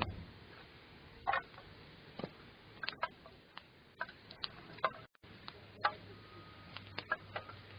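Wood campfire crackling: irregular sharp pops and clicks at uneven intervals, with a faint low hum after a brief dropout about five seconds in.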